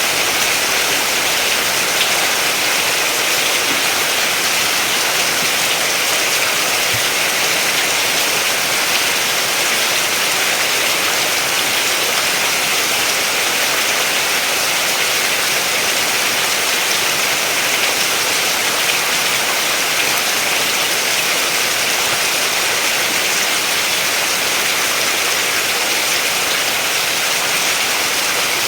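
Steady rain falling: an even, unbroken hiss of many drops, strongest in the high range, with no thunder or single drips standing out.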